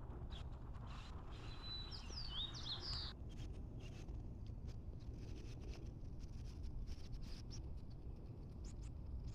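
Wild birds singing outdoors: a quick, high phrase of sharp up-and-down chirps about two seconds in, with fainter chirps later. Scattered sharp ticks and a steady low rumble run underneath.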